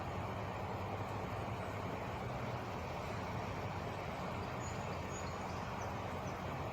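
Truck engine idling steadily, a constant low drone.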